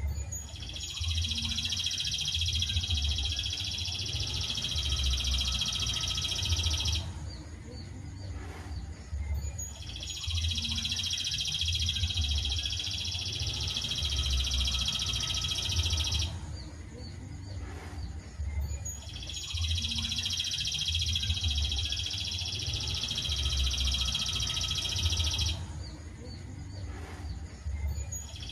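Looped bird-song tutoring recording: a dense, high, unbroken trilling song in phrases about six seconds long, repeated three times with short pauses between them.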